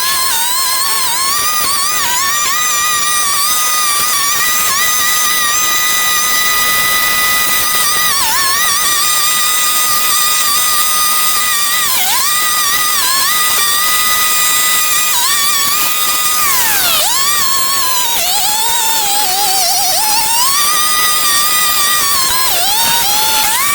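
A power tool running at high speed with a steady whine that dips briefly in pitch each time it is loaded, then recovers. Once, about two-thirds of the way in, it bogs down deeply before revving back up.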